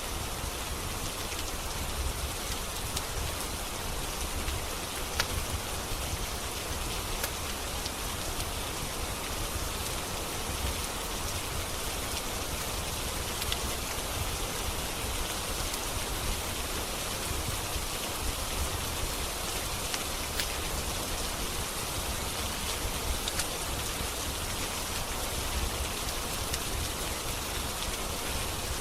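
Steady rain falling, an even hiss with a low rumble beneath it, broken by scattered sharp clicks every few seconds.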